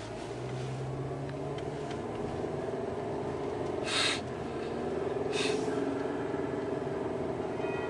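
Car interior: a steady road and engine drone with music from the car stereo's sustained tones, and two short bursts of hiss about four and five and a half seconds in.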